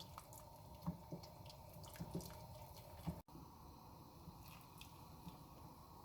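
Faint, occasional soft squishes and light clicks of a spoon stirring chicken corn soup thickened with cornflour slurry in a pot.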